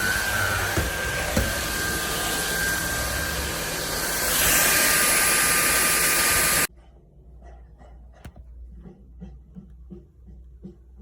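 Cordless stick vacuum cleaner running with a steady high whine, getting louder about four and a half seconds in, then switched off suddenly about two seconds later. Faint light clicks follow.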